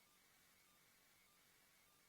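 Near silence: a faint steady hiss with a faint high tone that switches on and off.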